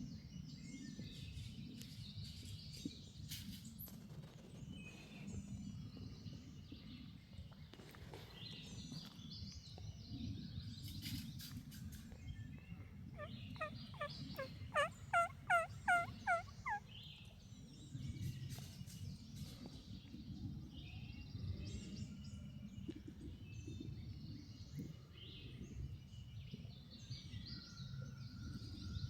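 Turkey calling: a run of about nine evenly spaced notes about halfway through, over songbirds chirping and a low steady rumble.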